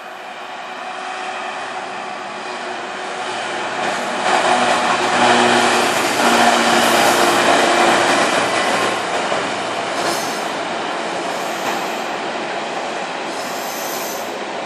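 A train approaching and passing on the main line, its rumble building to a peak about five seconds in and then holding as the carriages go by, with two brief high-pitched squeals near the end.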